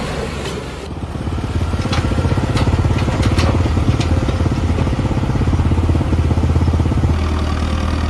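Tractor diesel engine running hard with a steady low drone, with a few sharp clicks a couple of seconds in.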